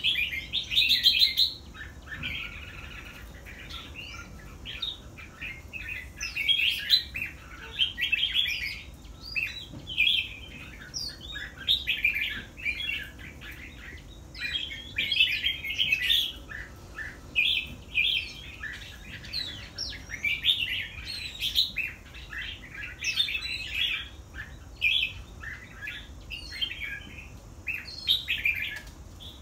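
Red-whiskered bulbul singing: short, chirpy song phrases repeated every second or two.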